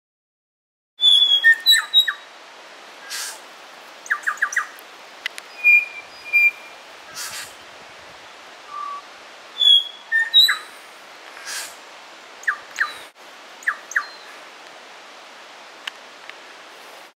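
Small forest birds singing and calling: many short, clear whistled and chirped notes at different pitches over a steady hiss, starting suddenly about a second in.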